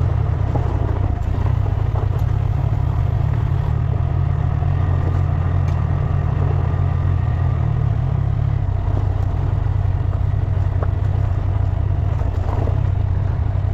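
Honda Grom motorcycle riding along, its small single-cylinder engine running steadily under a heavy, even low rumble.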